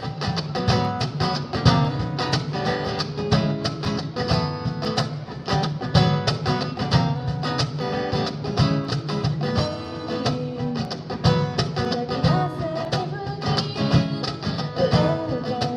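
Acoustic guitar playing an instrumental break in a song, strummed with quick, even strokes.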